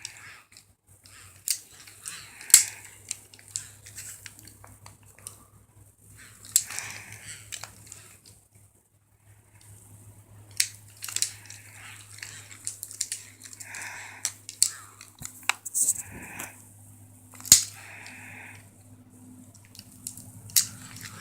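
Irregular sharp clicks, knocks and rustling, with several short squeaky sounds, like a dog chewing and tugging at a toy.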